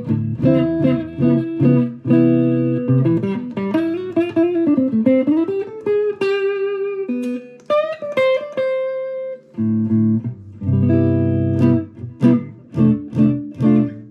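Electric guitar (Fender Deluxe Player Stratocaster) played through a Fender Mustang GTX100 amp on its clean jazz preset. It plays chords, then a single-note line with bent notes and a few held notes, and after a short break about ten seconds in, more struck chords.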